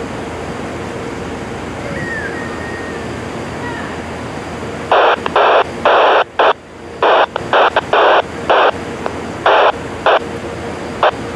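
Scanner radio breaking squelch in a string of short, loud bursts of static that start and stop abruptly, beginning about halfway through, over a steady background hiss.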